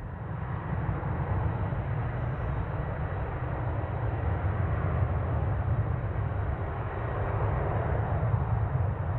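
Jet airliner's engines passing, a steady rushing noise that swells over the first second and then holds.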